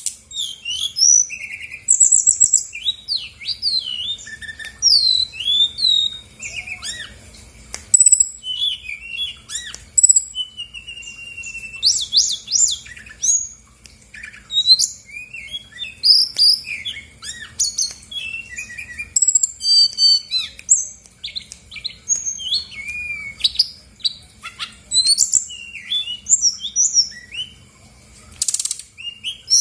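Brown-chested jungle flycatcher singing a fast, unbroken stream of varied whistles, glides, trills and chirps, full of imitated calls of other birds: a full-repertoire lure song meant to provoke other birds into answering.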